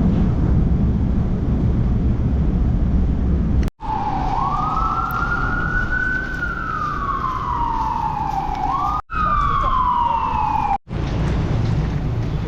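Emergency vehicle siren wailing in a slow rise and fall, starting suddenly about four seconds in and cutting off near the end. A low, steady rumble of city traffic comes before and after it.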